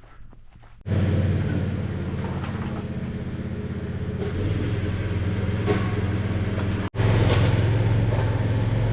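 Lawn mower engine running steadily. It starts suddenly about a second in and drops out for an instant about seven seconds in.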